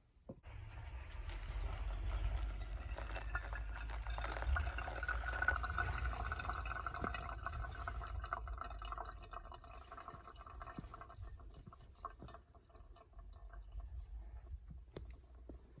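Water being poured into a container, a steady pour that thins out about halfway through into smaller trickles and drips.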